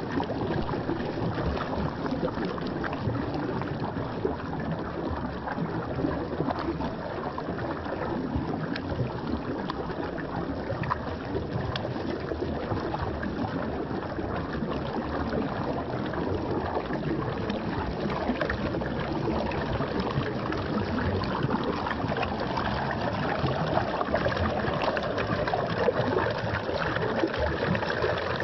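Waterfall: water pouring and splashing in a steady rush, with small splashy ticks scattered through it.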